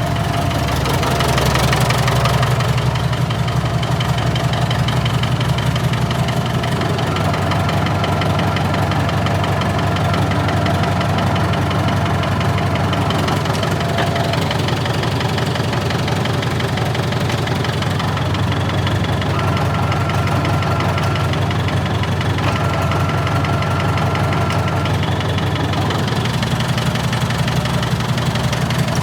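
David Brown tractor engine running steadily at idle, a little louder for a moment about a second in.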